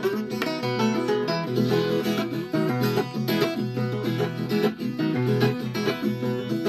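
Viola caipira, the Brazilian ten-string steel-strung guitar, playing an instrumental passage of plucked melody notes between sung verses.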